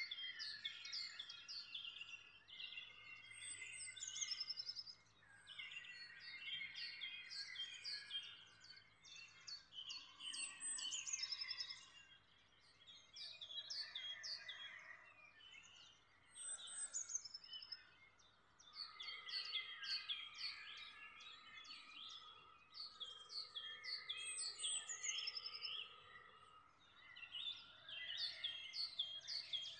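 Several songbirds singing at once, with overlapping whistled phrases, chirps and trills that swell and fade every few seconds.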